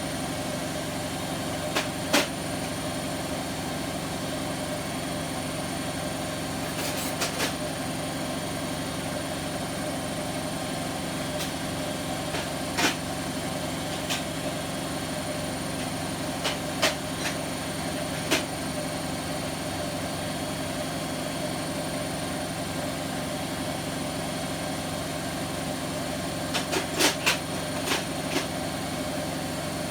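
Bosch WAK28260 front-loading washing machine running its spin with a steady motor and drum hum, a few sharp clicks or knocks now and then, around two seconds in, in the middle and near the end. The machine is suspected of worn drum bearings.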